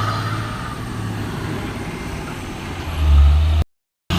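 Heavy truck's diesel engine running with a steady low drone as it climbs a steep grade; about three seconds in it suddenly grows louder for half a second, then the sound cuts out abruptly for a moment.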